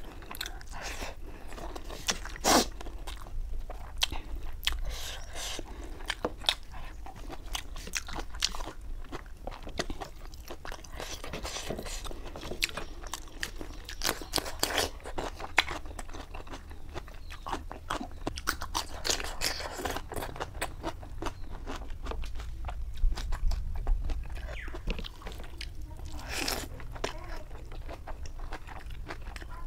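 A person chewing and crunching food close up: wet mouthfuls of rice eaten by hand, with crisp bites of raw cucumber around the middle.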